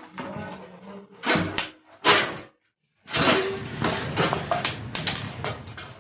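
Plastic casing of an electric room heater being handled while it is taken apart: a couple of short knocks and scrapes, then, after a brief cut, a longer stretch of rattling and scraping.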